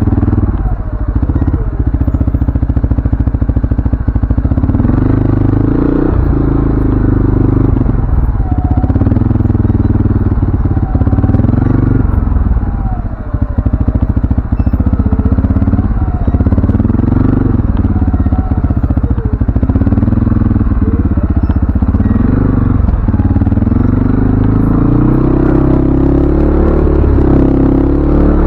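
CFMoto ATV engine running under way, loud and close, its pitch rising and falling over and over as the throttle is worked, with a brief drop about halfway through.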